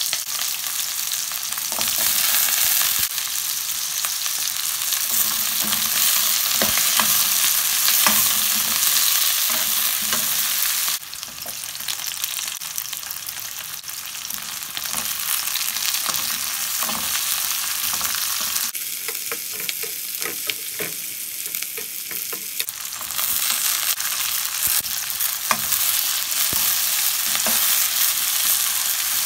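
Onions and whole spices sizzling in hot oil in a black wok, with a metal spoon stirring and scraping against the pan in scattered clicks. The sizzle drops quieter about a third of the way in and comes back up near the end.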